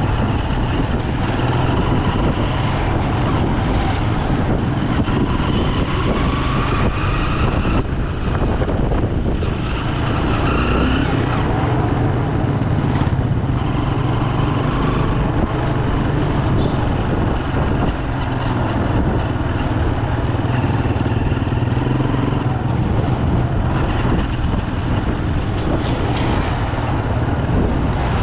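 Bajaj Pulsar 200 single-cylinder motorcycle engine running steadily while riding, mixed with street traffic noise.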